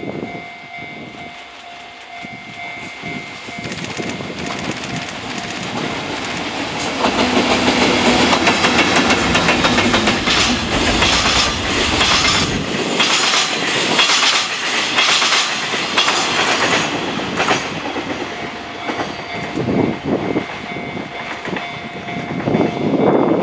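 Freight train passing: an EF64 electric locomotive hauling a dead EF210 and a long rake of empty Chiki flatcars. It builds up over the first few seconds, then the wagon wheels clack rapidly over the rail joints, loudest through the middle. Toward the end it eases off as the last cars go by.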